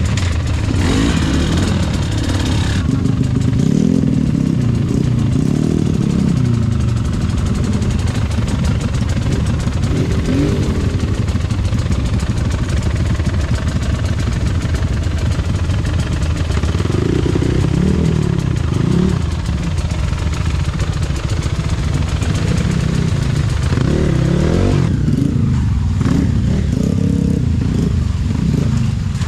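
KTM EXC 300 two-stroke enduro engine heard on board, its revs rising and falling constantly as the bike is ridden through mud.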